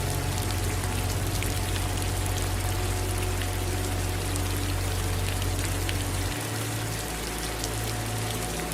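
Steady rain, with many small drops pattering over an even hiss and running water mixed in. A low steady hum sits underneath and shifts in pitch about six seconds in.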